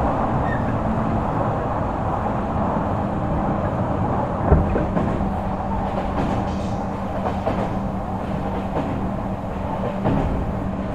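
Onboard running sound of an Odakyu 3000 series electric train with fully enclosed traction motors: steady rolling noise and a constant low hum, with one sharp knock about four and a half seconds in.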